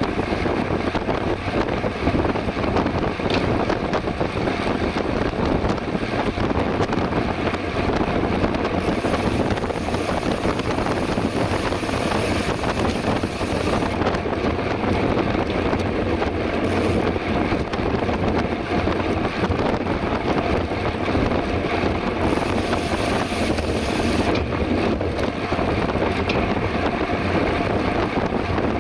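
Steady rushing wind on the microphone of a camera riding along on a moving bicycle, with a fast flutter and no let-up.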